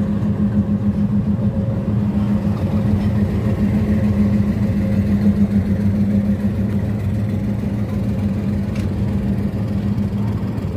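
Steady low drone of a passenger train running slowly into a station, heard from on board, with a held low hum throughout.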